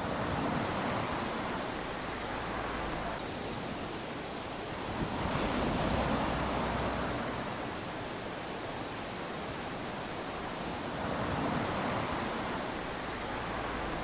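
Small waves lapping onto a sandy beach: a steady wash that swells and eases three times, about every five seconds, as each wave runs up the sand.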